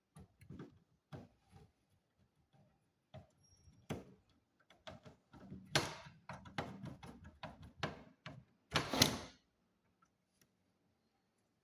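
Hard plastic and metal clicks, knocks and scraping as the all-in-one PC is worked on by hand with small tools. The clicks are scattered at first, then come thicker about halfway through, with a longer scrape near the end.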